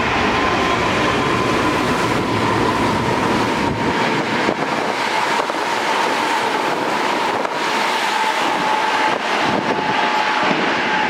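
A Hankyu electric train passing through a station at speed without stopping. It makes a loud, steady rush of wheel and air noise, with irregular clacks over the rail joints and a thin whine that drops slightly in pitch.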